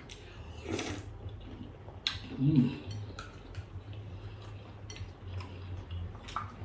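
Someone eating seafood soup: scattered small clicks of a spoon against the bowl and slurping mouth noises, with a short hummed voice sound about two and a half seconds in.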